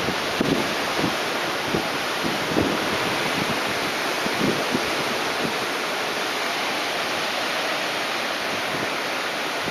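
Steady rushing noise of typhoon wind, with gusts knocking on the microphone a few times in the first half.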